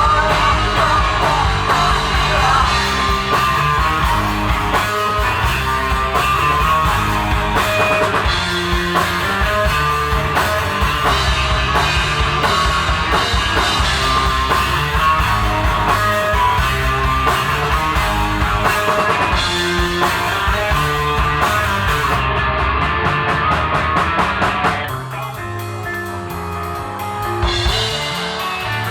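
Alternative rock band playing live: drum kit, electric guitar and bass with singing. About 25 seconds in the band drops back to a sparser, quieter passage.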